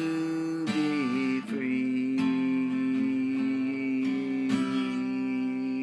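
Acoustic guitar strummed at the close of a song, under a long held sung note that dips in pitch about a second in and then holds steady.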